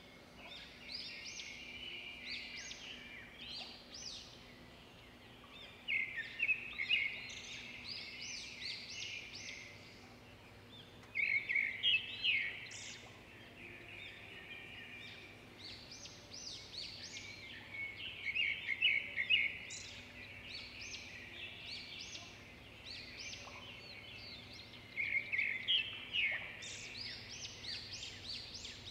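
Birdsong: bursts of rapid high chirps and trills every few seconds, over a faint steady hum.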